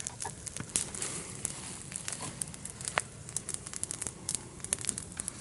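Wood campfire crackling, with irregular sharp pops and snaps, the loudest about three seconds in.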